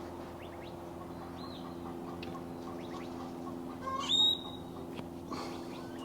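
Bird calls: a few faint short chirps, then one louder call about four seconds in that rises and holds a high note, over a steady low hum.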